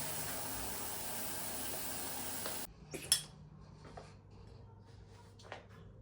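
A steady hissing rush that cuts off abruptly about two and a half seconds in, then one sharp clink of kitchenware and a few lighter clinks and taps.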